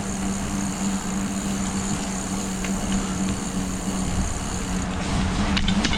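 Steady wind and rolling noise of a bicycle ride, with a constant low hum, and a few faint high ticks near the end.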